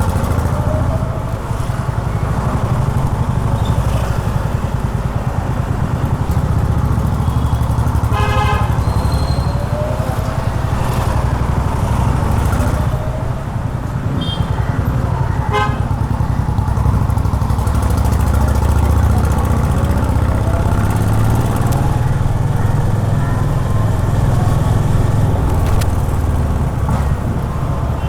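Honda H'ness CB350's single-cylinder engine running steadily while riding in city traffic. A vehicle horn sounds for about a second around eight seconds in, and two short horn toots follow around fourteen and fifteen seconds in.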